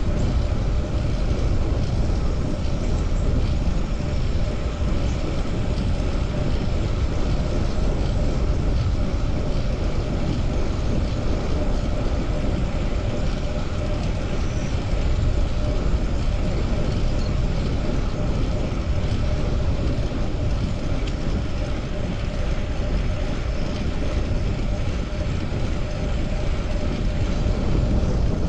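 Steady wind rush on the microphone and tyre-on-road noise from a fixed-gear bicycle riding along without a break, with a faint steady hum underneath.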